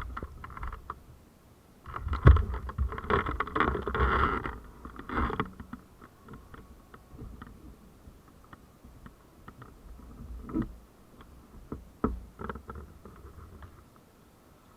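Irregular knocks, clicks and rustling over a low rumble, busiest between about two and five seconds in, then thinning to scattered ticks.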